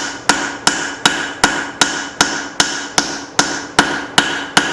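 Cross-peen hammer striking hot leaf-spring steel on an anvil in a steady rhythm, about thirteen blows a little under half a second apart, each leaving a short metallic ring. The blacksmith is drawing out and broadening the hatchet blade just in front of the eye.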